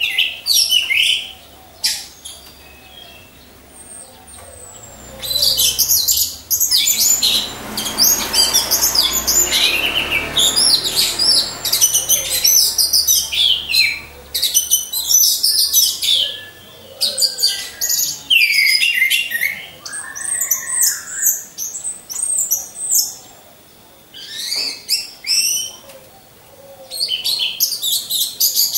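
Orange-headed thrushes singing: fast, varied high chirping phrases in loud bursts, broken by short pauses. A soft rushing noise runs under the song for a few seconds near the middle.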